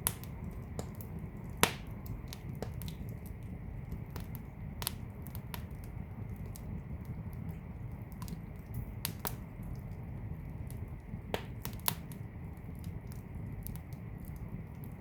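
Wood fire burning in a fireplace: a steady low rumble of the flames with irregular crackles and pops of burning logs, the sharpest pop about a second and a half in.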